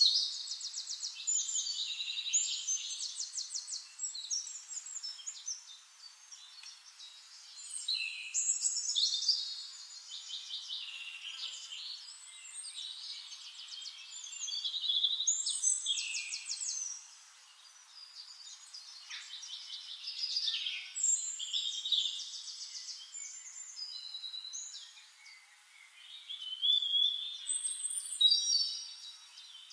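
Songbird singing: bursts of rapid trills and chirps every six or seven seconds, with quieter chirping between. The sound is thin and high-pitched, with nothing low in it and no sewing-machine motor to be heard.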